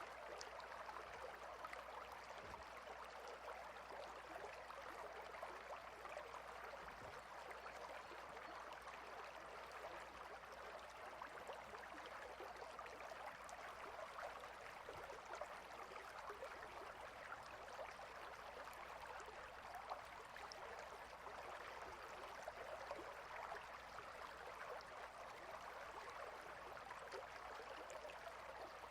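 River water flowing steadily over and between rocks, an even rushing with no changes.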